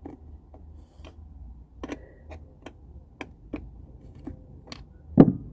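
Irregular sharp clicks and taps of hand tools working at battery terminals, with one louder knock near the end.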